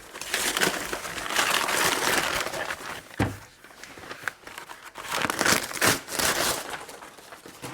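Parcel packaging being crumpled and torn open by hand, in rustling bursts, with one knock about three seconds in.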